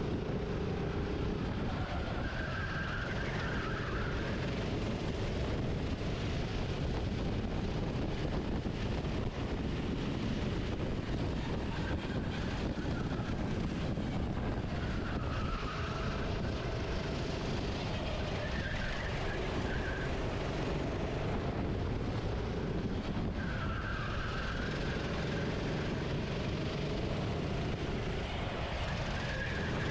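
Racing kart engine heard from onboard, its revs rising and falling every few seconds as it accelerates and brakes through corners, over a steady rushing noise.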